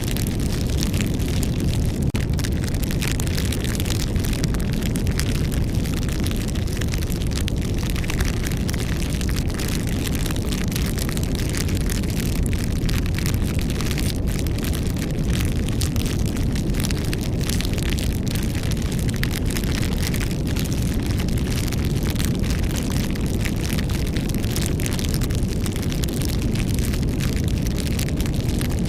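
Wood campfire burning: a steady low rumble of flame with frequent small crackles and pops throughout.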